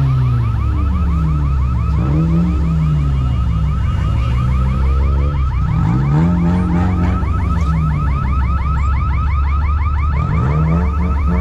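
Loud electronic alarm: rapid high chirps, about nine a second, over lower tones that sweep up and down every couple of seconds, with heavy steady bass beneath.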